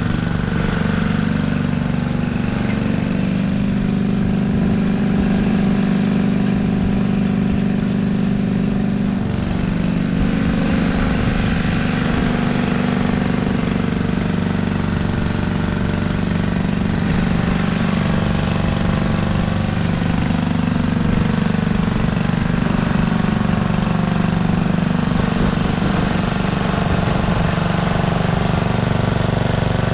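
Simplicity Landlord garden tractor engine running steadily, its note shifting slightly about ten seconds in.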